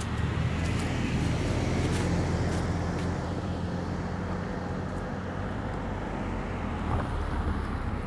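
A car drives by on the street, its engine hum and tyre noise loudest about two seconds in and then slowly fading.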